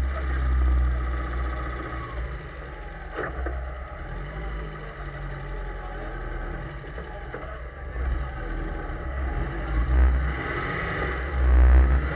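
Fiat 131 with a 2.0 16-valve turbo engine running while being driven on a wet track, heard from a camera on its bonnet: the engine sits under heavy wind buffeting on the microphone, which swells about ten seconds in and again near the end.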